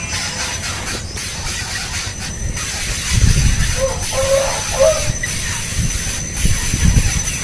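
Steady outdoor hiss with low rumbling bursts a few seconds in and again near the end, and a few faint short high notes around the middle.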